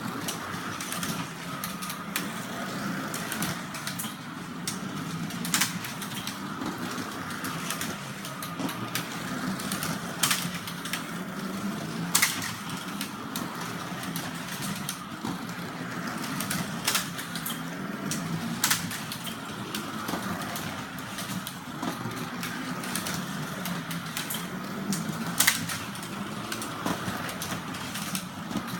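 Carrera slot cars' small electric motors running steadily around the track, with a sharp click every few seconds.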